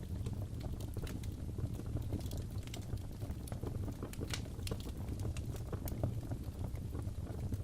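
Crackling fireplace: a steady low rumble of burning with many sharp, irregular crackles and pops of wood.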